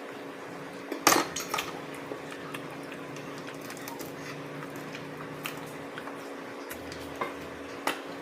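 Spoon and fork clinking against a plate and bowl while eating, with a sharp cluster of clinks about a second in and a few lighter ones near the end, over a steady low hum.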